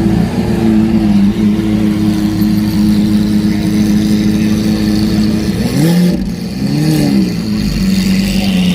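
Car engine idling steadily, then revved twice in quick blips about six and seven seconds in, each rising and falling in pitch before it settles back to idle.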